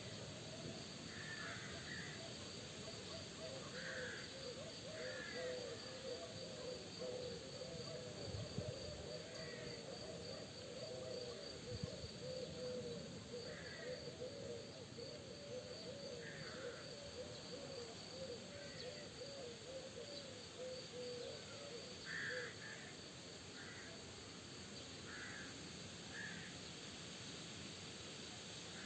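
Outdoor nature ambience of birds calling. A dense run of low, quickly repeated calls goes on until about two thirds of the way through and then stops, while scattered higher calls come every second or two. Underneath runs a steady high insect-like tone over a soft wind hiss.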